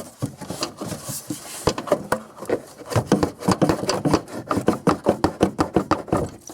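Rapid rubbing and scraping strokes, about four a second, growing more regular from about three seconds in, as a rubber lower radiator hose is worked back and forth to free it from its fitting.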